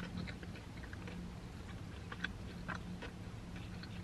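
Close-up chewing of a KFC chicken nugget, with small wet crackles of a soft breading that gives only a gentle crunch, over a faint steady low hum.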